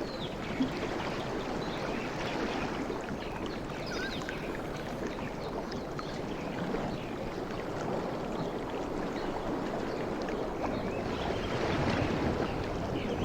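Sea waves washing and lapping, a steady rush of water with many small splashes, swelling a little near the end.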